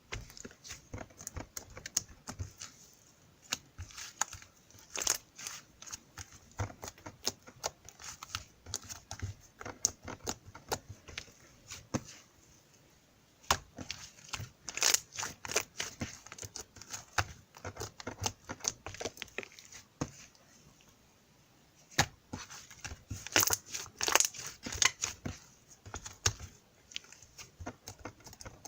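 Irregular crinkling and crackling with many sharp clicks, broken by two short lulls.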